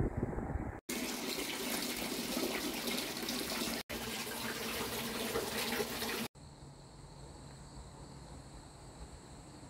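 Wind rumble on the microphone for under a second, then, after a cut, a mountain stream rushing: loud, even water noise over two short clips. About six seconds in it cuts to a quieter scene with steady, high-pitched insect calls.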